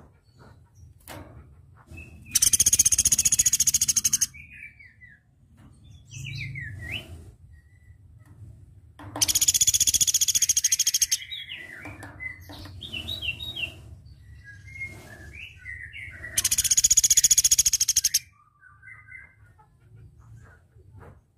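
Velvet-fronted nuthatch (platuk beras) singing: three loud, very rapid high-pitched trills of about two seconds each, with short downward-sliding chirps in between.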